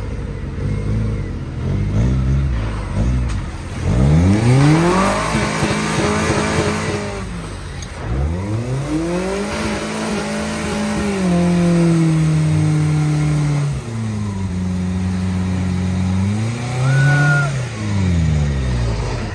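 A Suzuki 4x4's engine revving hard in repeated surges as it climbs through deep mud. The revs sweep up sharply about four seconds in and again near eight seconds, hold high and steady for a few seconds, then drop and surge once more near the end.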